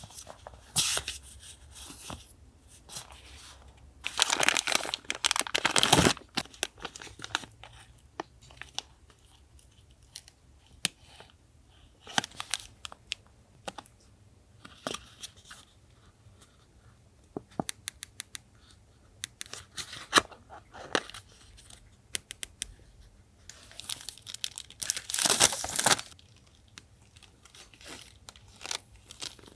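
Paper being torn and handled for a collage: two longer tearing rips, one about four seconds in and one near the end, between scattered light clicks, taps and paper rustles.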